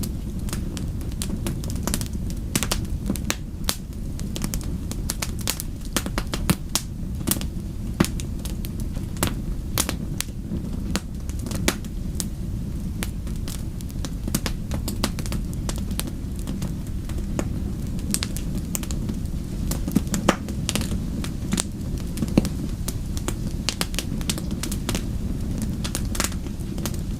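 Wood fire burning with a steady low rumble of flames and frequent irregular sharp crackles and pops from the logs.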